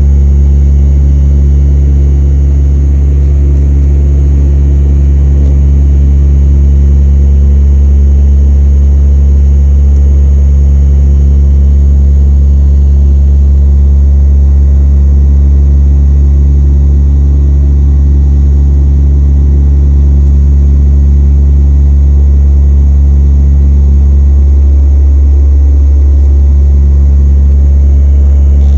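Inside the cabin of a DHC-8-200 (Dash 8) turboprop in flight: a loud, steady low propeller drone with several steady engine tones above it.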